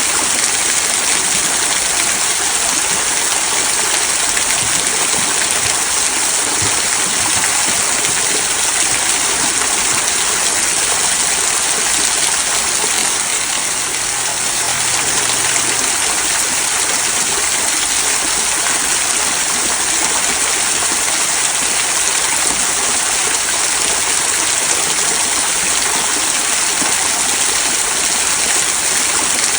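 Small rock waterfall trickling down stones into a stream: a steady, even rush of falling and splashing water.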